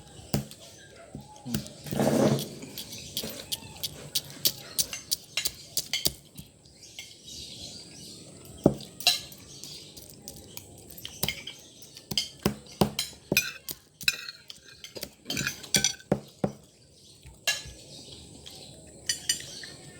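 Spoon and fork clinking and scraping against a plate during eating, in many sharp, irregular clicks.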